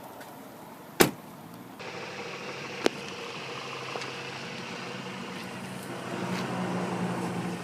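Car door clicks, a sharp loud one about a second in and another near three seconds, over the steady low hum of the Ford Fusion's engine idling, which grows slightly louder near the end.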